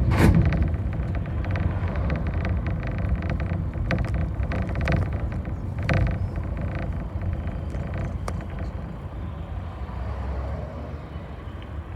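Bus heard from on board while driving: the engine runs with a low rumble while the body and fittings rattle and click, with a sharp knock right at the start and another about six seconds in. The sound eases off a little toward the end.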